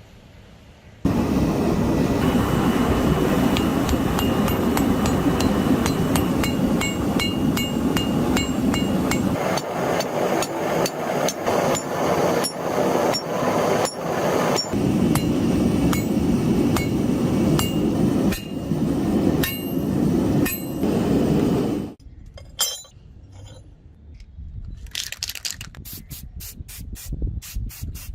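Hammer striking steel in rapid blows, the metal ringing, over a steady rushing noise. Near the end the noise stops and separate blows come about three a second.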